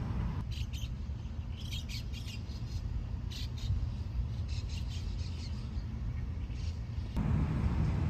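Small birds chirping in quick series of short, high chirps over a steady low rumble. About seven seconds in the chirping stops and a louder, fuller outdoor noise takes over.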